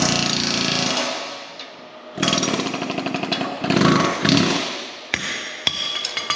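A loud power tool run in two bursts, the second with a fast rapid chatter, while working out a worn pin bushing on a John Deere 350G excavator. Two sharp metallic clinks follow near the end.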